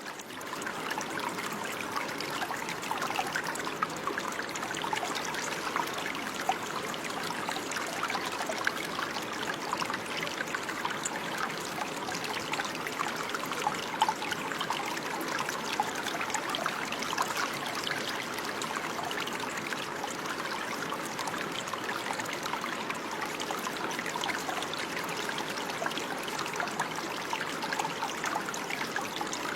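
Running water flowing steadily, with a continuous trickling splash.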